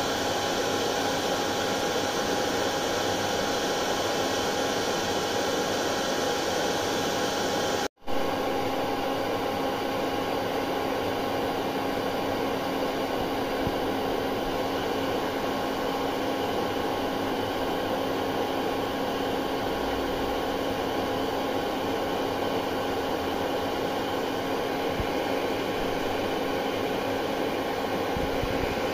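Hair dryer blowing steadily, an even rushing whoosh with a faint motor whine. The sound drops out for a split second about eight seconds in, where the recording is joined, then carries on with a slightly different hum.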